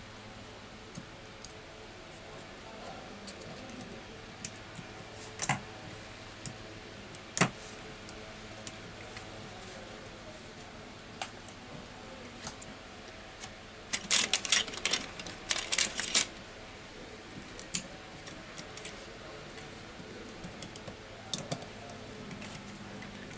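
Small metal tools and parts clicking and clinking against each other, with scattered single clicks and a quick cluster of clinks a little past the middle, over a faint steady low hum.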